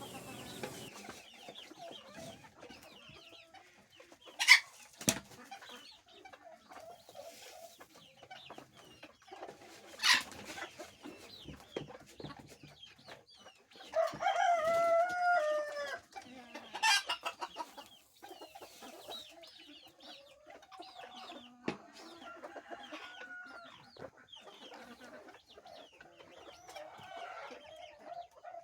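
Small flock of BB Red bantam chickens and baby chicks clucking and peeping steadily while feeding, with one louder, drawn-out call lasting about two seconds around the middle.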